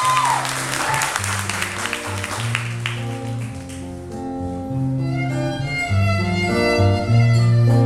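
Audience applause and cheering fading out over the first few seconds while a live band plays an instrumental passage over a bass line; the music grows fuller and louder about five seconds in.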